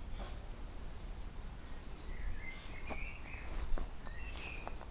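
Outdoor ambience of birds chirping in short, faint calls from about two seconds in, over a steady low rumble, with a few light clicks near the end.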